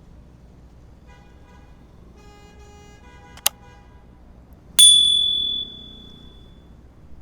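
Two short horn-like tones, a sharp click, then a sudden metallic strike that rings out for a second or two.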